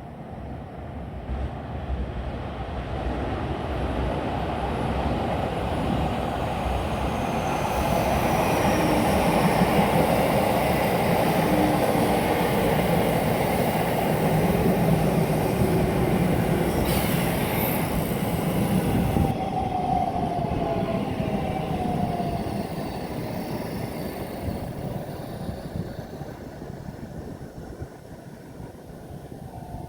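An electric train running past on the rails: the rumble and wheel noise build up, hold loud for several seconds and then fade away, with a thin falling whine in the middle of the pass.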